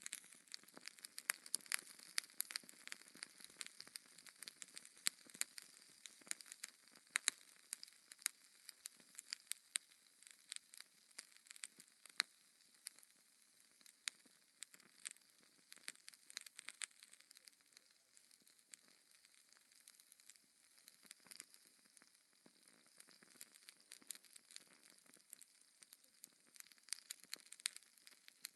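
Log fire crackling: irregular sharp pops and snaps over a soft hiss, thinning out for a few seconds past the middle.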